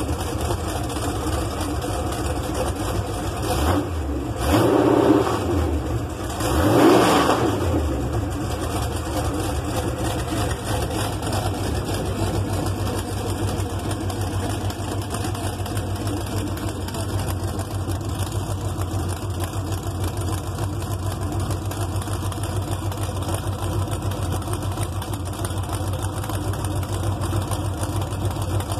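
Performance 355 small-block Chevy V8 running at a steady idle, revved briefly twice, about four and about seven seconds in, then settling back to idle.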